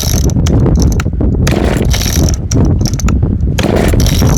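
1961 Homelite XL-102 two-stroke chainsaw being pull-started cold on full choke: the recoil starter is yanked about three times, roughly two seconds apart, cranking the engine over.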